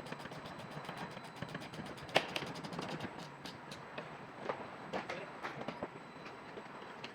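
Rapid clicking, then a few sharp metallic knocks, the loudest about two seconds in and the rest between four and six seconds, over a steady background hiss.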